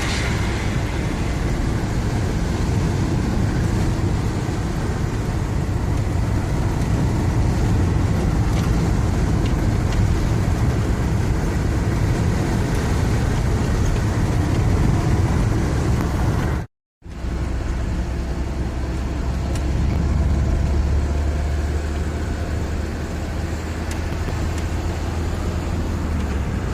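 Camper van driving, with steady engine and road noise. The sound cuts out for a moment about two-thirds of the way through and comes back with a deeper, steadier hum.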